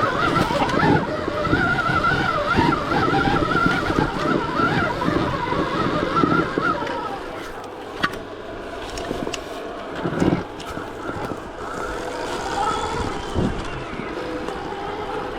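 Stark Varg EX electric dirt bike's motor whining, its pitch rising and falling with the throttle, over a rough rumble, strongest in the first half. Sharp knocks about eight and ten seconds in.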